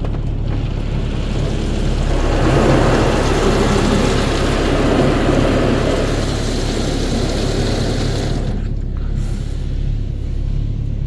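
Automatic car wash spraying water over the car, heard from inside the cabin as a dense steady hiss that cuts off suddenly near the end, over the car's low steady hum.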